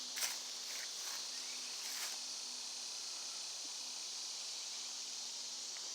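Steady high-pitched outdoor insect chorus, with a few faint rustling clicks in the first two seconds.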